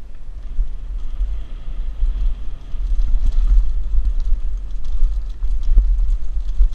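Wind buffeting a helmet-mounted GoPro's microphone at riding speed, with a steady rumble, while a Mongoose Pinn'r mountain bike clatters over rough dirt trail with scattered clicks and knocks.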